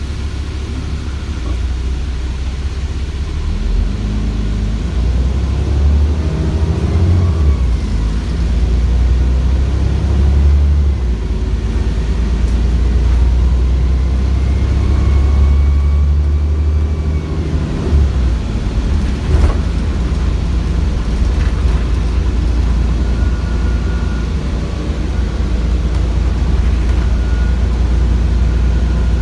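Cummins ISBe 6.7-litre diesel of an ADL Enviro400 double-decker bus running under load, its engine note rising and falling twice as it accelerates, with a high turbocharger whine over the low drone. A single knock sounds a little past the middle.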